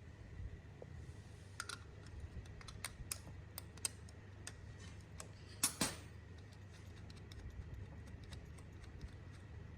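Scattered light clicks and taps of small hard parts being handled, with a louder pair of knocks about six seconds in, over a low steady hum.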